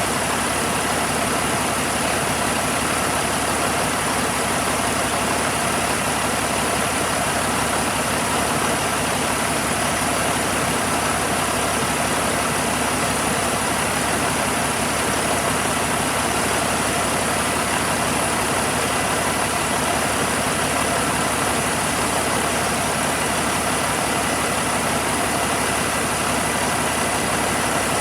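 Caterpillar 3406C inline-six diesel engine idling steadily.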